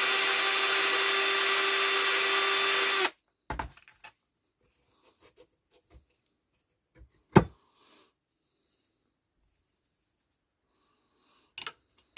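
A power tool running steadily at one speed while taking rust off a chrome seat clamp and nut, stopping suddenly about three seconds in. A few knocks and clunks of handling follow, one louder clunk about halfway.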